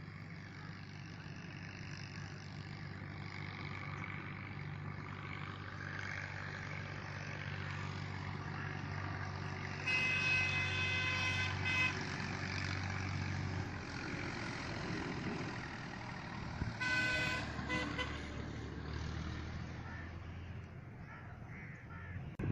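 A motor vehicle's engine running steadily, with its horn sounding twice: a blast of about two seconds about ten seconds in, and a shorter one about seven seconds later.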